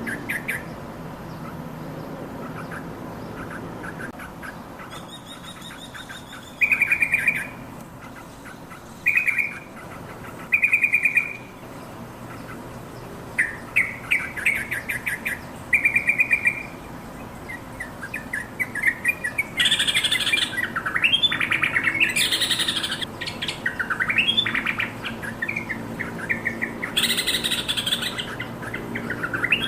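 Yellow-vented bulbul calling in short, rapid chattering bursts. The calls come thicker and louder about two-thirds of the way through, with rising-and-falling whistled notes.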